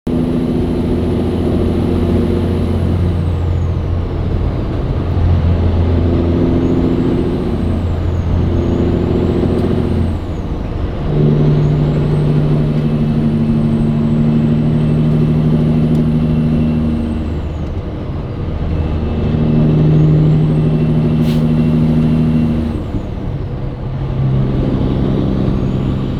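Caterpillar 3406E diesel in a Peterbilt truck, running through mufflers in place of its former straight pipes, pulling hard and shifting up through the gears. The engine note holds and then drops at each of about four shifts, with a high whistle that rises and falls along with it.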